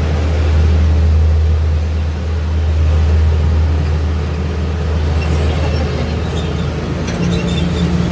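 Miniature train running with a steady, loud low drone, with a few faint clicks near the end.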